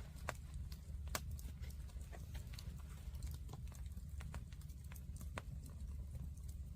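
Wood campfire crackling, with irregular sharp pops and snaps, a few louder ones standing out, over a steady low rumble.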